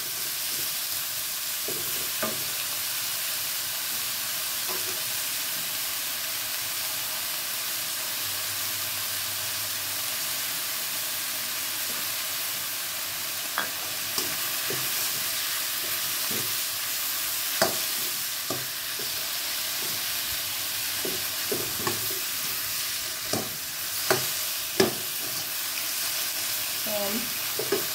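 Pork sizzling in a non-stick wok as it is dry-fried until cooked, with a spatula stirring and scraping through it. Now and then the spatula taps sharply against the pan, most strongly a few times in the second half.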